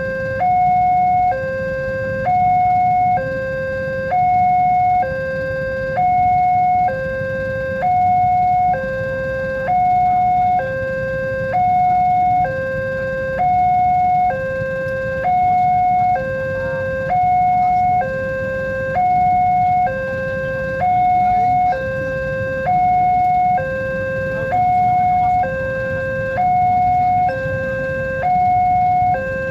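Railway level-crossing warning alarm sounding, a two-tone electronic signal that alternates evenly between a low tone and a higher tone about once a second. A steady low rumble runs underneath.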